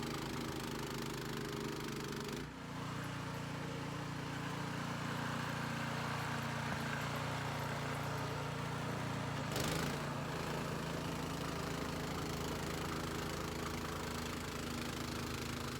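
Troy-Bilt gas snowblower engine running steadily while clearing snow. Its note dips and changes about two and a half seconds in, and there is a short burst of noise about ten seconds in.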